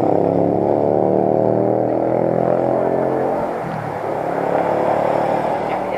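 A vehicle engine running with a steady, even hum that fades away about three and a half seconds in.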